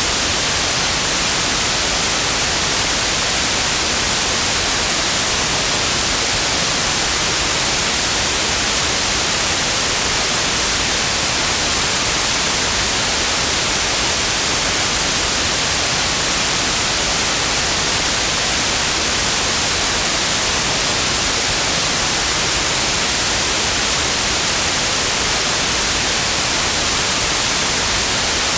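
Steady, unchanging white noise: an even hiss across the whole range, brightest in the highs.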